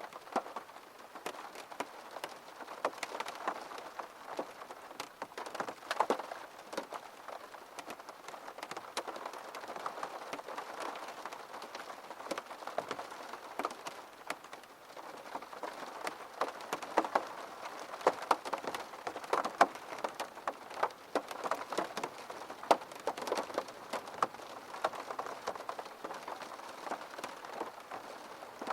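Steady rain falling on a surface, with many distinct drops tapping through an even patter.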